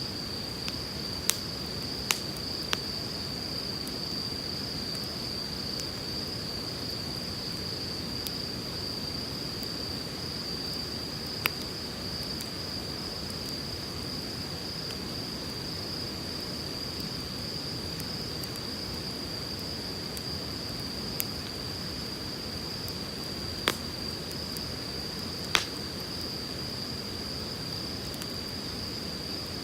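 Wood campfire crackling, with about six sharp pops from the burning firewood scattered through, the loudest near the end, over the steady rush of a flowing river. A steady high-pitched tone sits over it all.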